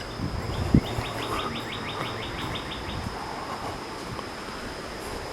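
A bird sings a fast trill of about a dozen quick repeated high notes lasting a couple of seconds, over a steady high-pitched insect drone. A single sharp thump comes just under a second in.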